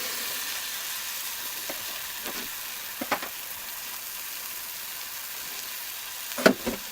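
Beaten eggs and chopped vegetables sizzling in a hot 8-inch electric skillet, a steady high hiss. A few short clicks sound about three seconds in and again near the end.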